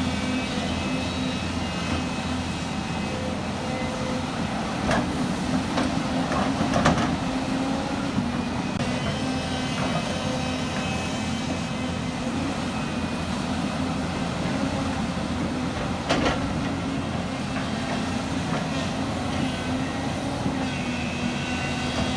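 Heavy earthmoving machinery's diesel engine running steadily, with a few sharp knocks about five, seven and sixteen seconds in.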